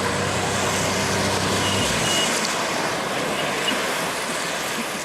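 An engine running with a steady low hum that cuts off abruptly about two seconds in, with two short high beeps around the moment it stops. A steady rushing noise continues under and after it.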